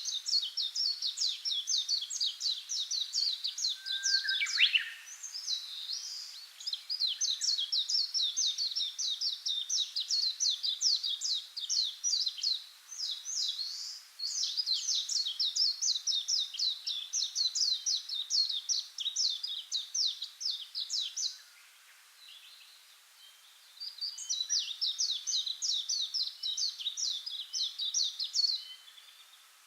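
Small songbird singing long, rapid trilled phrases of many quick high notes repeated several times a second. Four phrases of several seconds each, with short breaks between them and a longer pause a little before the last one.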